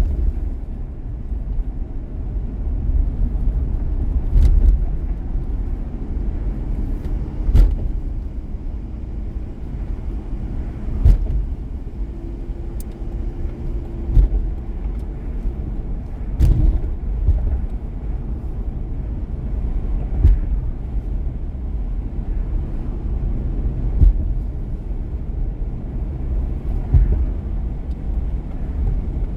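Car driving at road speed: a steady low tyre-and-road rumble, with a short sharp thump every three or four seconds.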